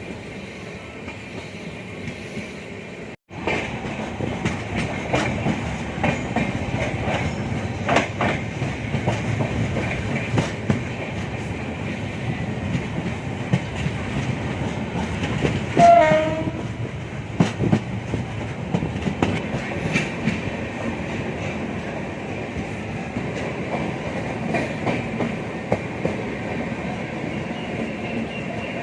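Passenger train running at speed, heard from on board: a steady rumble of wheels on rail with repeated clicks over the rail joints, louder after a brief dropout about three seconds in. About halfway through, a short train horn blast that drops in pitch.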